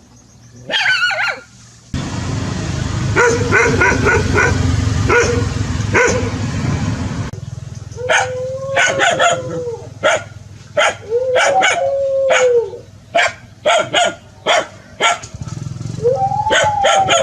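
Dog barking and howling: a short high yelp about a second in, a run of barks over a low rumbling noise, then sharp barks mixed with three drawn-out howls that rise and fall in pitch.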